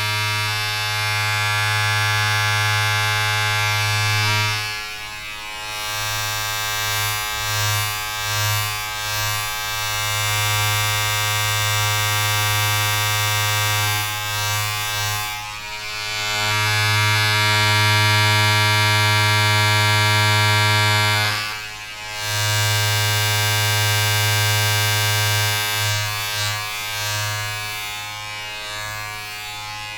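Steady electric buzz of a small motorised appliance, with a pitch like mains hum and many overtones. It dips in strength a few times, sharply about a fifth of the way in and again past the middle, and wavers unevenly near the end.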